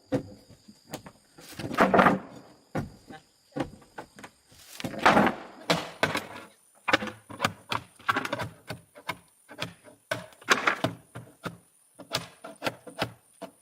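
Irregular knocks, thunks and clatter of wooden pieces being handled and knocked loose, with a few louder bursts of clattering among the scattered knocks.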